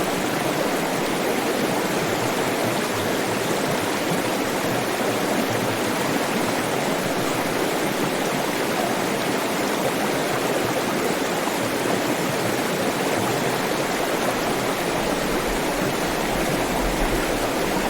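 Flowing water: a stream or small waterfall rushing steadily, without a break.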